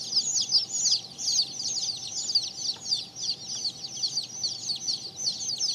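Many Mottled Houdan chicks peeping at once, a continuous chorus of short, high chirps that fall in pitch.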